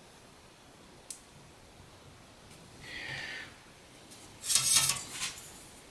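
Marking out an aluminium sheet with ruler and marker: a light click about a second in, a short scratchy stroke around three seconds, then a louder rubbing scrape near the end.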